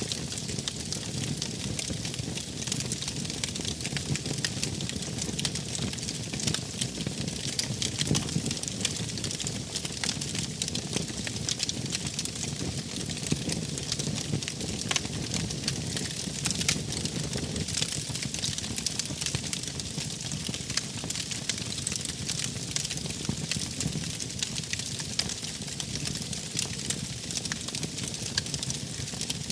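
Wood fire crackling, with frequent sharp pops over a steady low rumble of burning flames.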